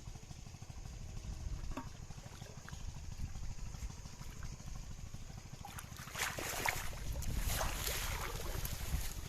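Water splashing and sloshing, louder from about six seconds in, over a low rumble of wind on the microphone.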